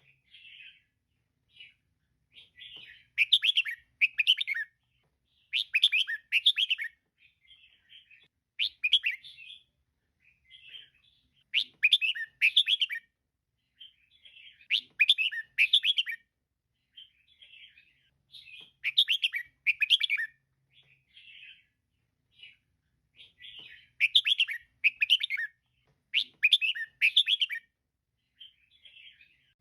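Female red-whiskered bulbul calling: loud groups of quick, chattering chirps every two to three seconds, often in pairs, with softer calls in between.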